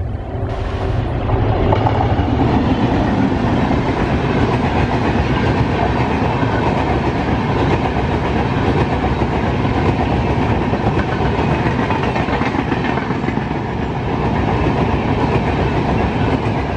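Electric-hauled express passenger train passing close at speed: a loud, steady rumble of coach wheels on the rails with clickety-clack over the rail joints, building in the first second or two as the locomotive draws level.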